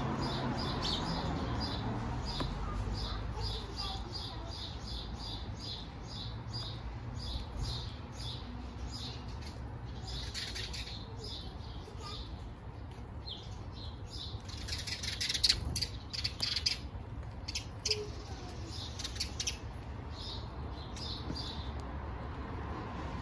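Small birds chirping: a long run of short, high chirps repeated about three times a second, with a louder, busier flurry about two-thirds of the way through, over a low steady background rumble.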